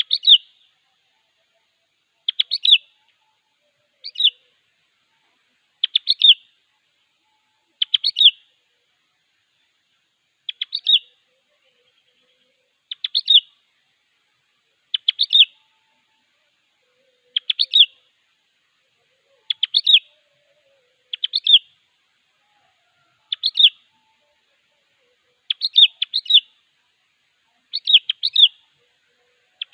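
Sooty-headed bulbul (kutilang) in full song: short, bright phrases of a few quick notes, repeated about every two seconds. This is the lively territorial song used as a lure to call rival bulbuls.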